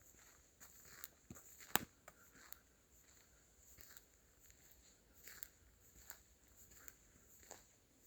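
Faint footsteps crunching on dry leaves and twigs on a forest floor, irregular soft crackles with one sharper crack a little under two seconds in, over a faint steady high hiss.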